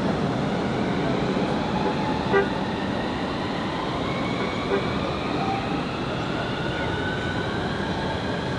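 Electric tram running, its motors whining with a tone that slowly rises in pitch as it gathers speed, over steady running noise. Two short knocks, about 2.5 and 5 seconds in.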